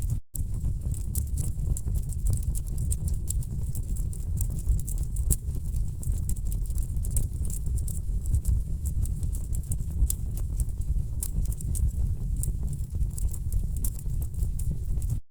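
Wood fire burning in a fireplace: irregular crackles and sharp pops from the logs over a steady low rumble of the flames. The sound cuts out for an instant just after the start and again at the very end.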